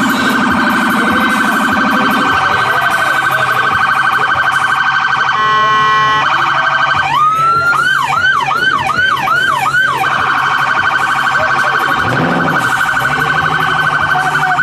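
Police car siren switching modes: a fast warble, a short steady horn-like blast about five and a half seconds in, then a yelp of about two rising-and-falling sweeps a second for some three seconds, then back to the fast warble.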